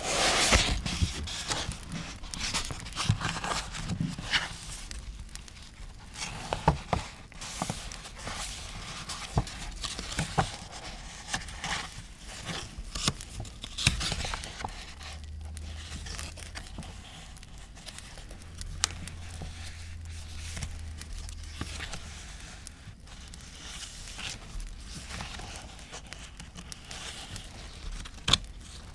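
Paper being handled, torn and crinkled for scrapbooking, with scattered sharp crackles and pops from a campfire track.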